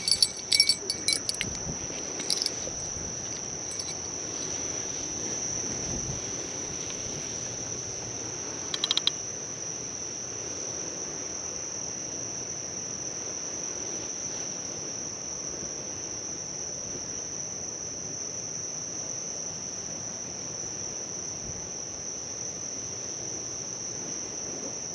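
Steady chorus of crickets, one continuous high trill. A bell clipped to a fishing rod jingles at the start, again about two seconds in, and briefly around nine seconds in, as something tugs the line.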